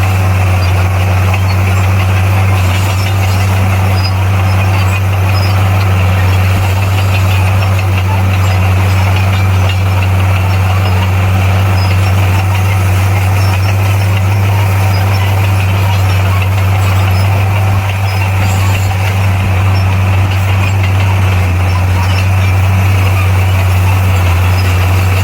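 Bulldozer's diesel engine running steadily at a constant pitch, a loud deep hum with no change in speed.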